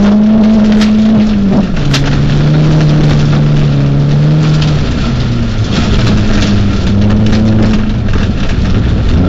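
Peugeot 206 rally car's engine heard from inside the cabin, pulling hard at steady revs on a muddy dirt stage, its note dropping sharply about a second and a half in and again around five seconds in, with scattered ticks of mud and stones hitting the car.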